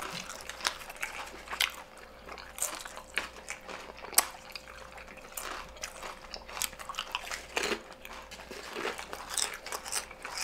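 Tortilla chips being bitten and chewed close to the microphone: irregular crisp crunches, with wetter chewing in between.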